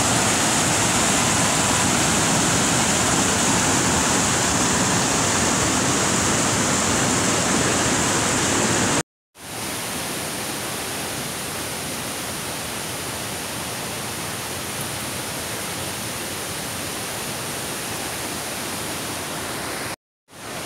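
Steady rushing roar of a large waterfall. It cuts off abruptly about nine seconds in and comes back a little quieter.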